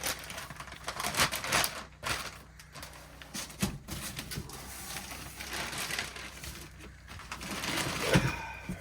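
Rummaging through a box of model train pieces: cardboard and plastic rustling with irregular clicks and clatter of handled items.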